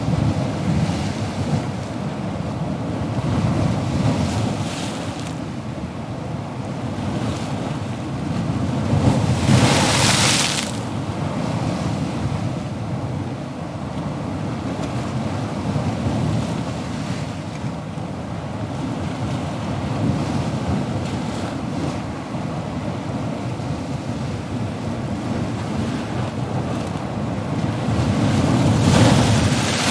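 Ocean waves rolling and washing in: a continuous low rumble of surf, with a wave breaking loudly about ten seconds in and another near the end.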